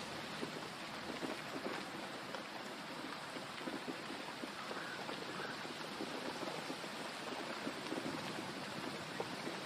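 Steady rain falling, a dense, even patter of drops with no thunder in this stretch.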